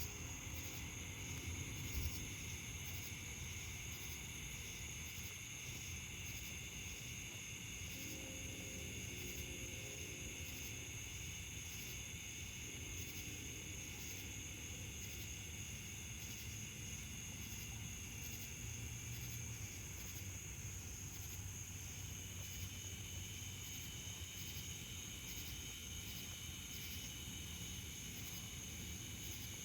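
Steady chorus of cicadas and other insects with a regular pulsing. A distant freight locomotive horn sounds faintly three times: at the start, about eight seconds in and about thirteen seconds in. A low rumble runs underneath.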